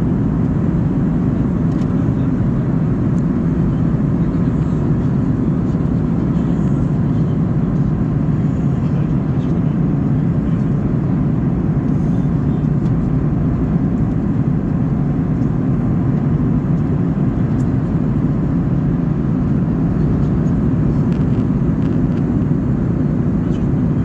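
Steady drone of a Boeing 737-800 heard from inside the passenger cabin in flight: a constant, deep rush of its CFM56 turbofan engines and airflow over the fuselage.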